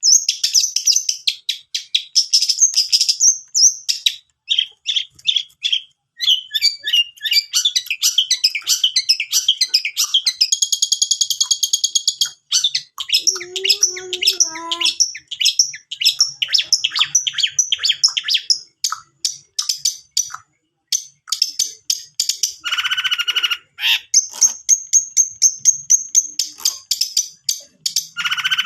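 Long-tailed shrike (cendet) singing a fast, varied song of high chattering chirps and trills, broken by short buzzy runs: a lure recording played to get a silent caged cendet to sing.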